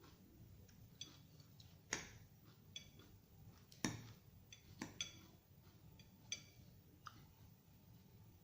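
Eating utensil clicking and clinking against a dish about eight times while salad is eaten, the loudest knocks about two and four seconds in, a few with a short ring.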